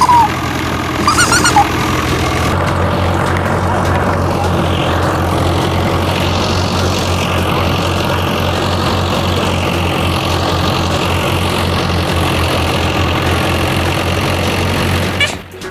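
A machine engine runs steadily with a low hum, and cuts off about a second before the end. In the first two seconds a few short, high, squeaky chirps sound over it.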